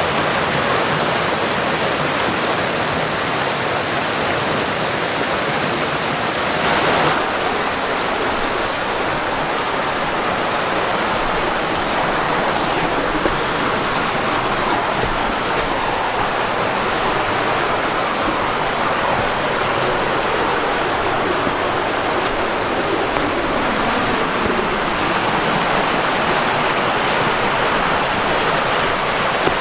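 Creek water rushing steadily, a continuous even wash of noise.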